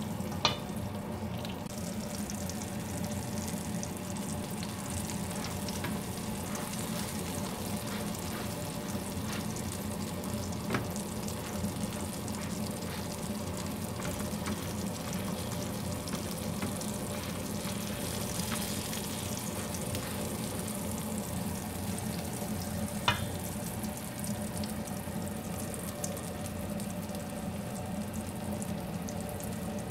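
Tortang talong (egg-battered eggplant omelettes) sizzling steadily as they fry in hot oil in a frying pan, with two brief sharp clicks, one near the start and one about three quarters of the way through.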